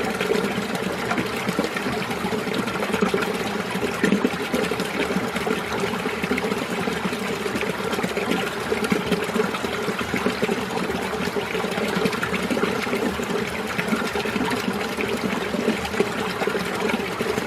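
Mountain stream water running steadily over rocks, an unbroken babbling rush with small rapid ripples.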